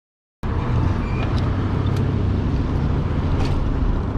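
Steady low rumble of outdoor street and vehicle noise, with a few light clicks, starting abruptly just under half a second in.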